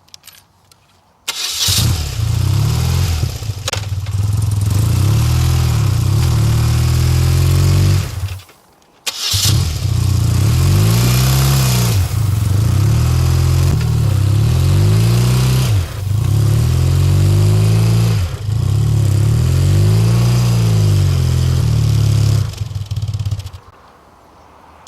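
Motorcycle engine running under way, its pitch repeatedly rising and falling, with wind rushing past. It starts about a second in, drops out briefly partway through, and stops shortly before the end.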